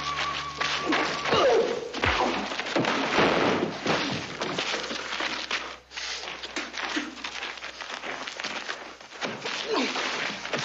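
A fistfight: punches landing with thuds and knocks, scuffling and grunting, after the background music stops about a second in.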